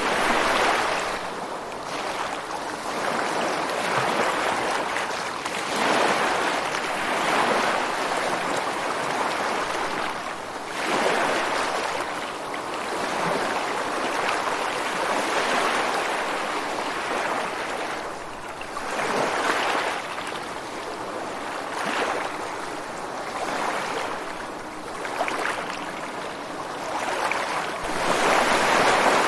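Ocean surf on a beach: a constant hiss of washing water, with waves breaking and surging up every several seconds.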